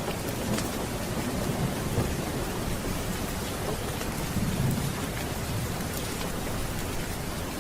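Steady heavy rain with low rolling thunder rumbling underneath, swelling twice, with scattered small ticks of drops.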